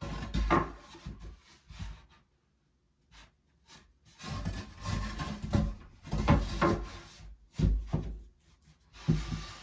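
Wooden shelf pieces being handled and worked into place: irregular knocks, clatters and rubbing of wood against wood, with a short pause about two seconds in.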